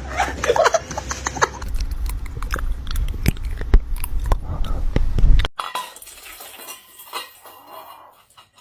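Rapid clicking and clattering of small hard objects, with a low rumble underneath; it cuts off suddenly about five and a half seconds in, and fainter scattered knocks follow.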